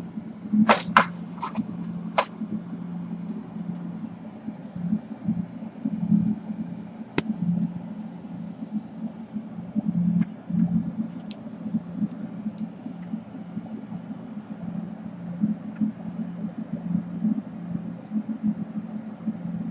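A steady low hum that wavers in level, with a quick run of small sharp clicks about a second in, another single click near seven seconds and a few faint ticks later.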